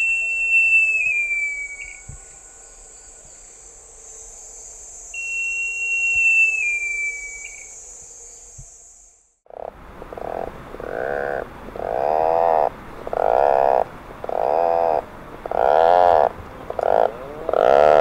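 Great jacamar giving two long, high whistles that slide down in pitch, a call that recalls a harpy eagle. About halfway through, Atlantic puffins take over with a run of rough, pulsed growls, each about half a second long, that sound like a chainsaw or an old motorbike.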